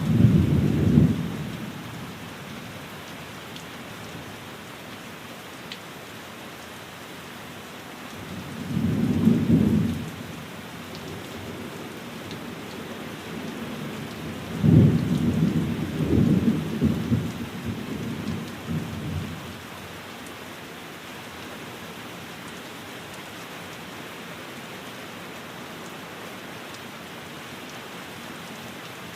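Steady rain falling, with three low rolls of thunder: a short one at the start, another about nine seconds in, and a longer, rumbling one from about fifteen to nineteen seconds in.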